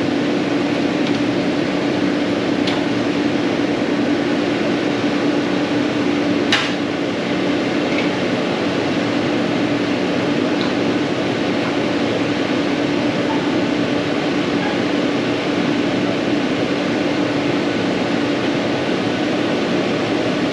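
A steady mechanical whirring hum, with one sharp click about six and a half seconds in.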